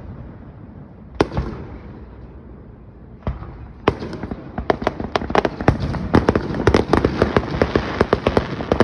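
Fireworks going off: a single bang about a second in and another about three seconds in, then a rapid crackling barrage of many pops a second that builds and keeps going.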